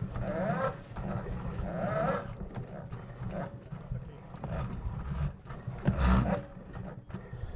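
Dirt bike engine running and revving unevenly, with several louder surges, the loudest about six seconds in.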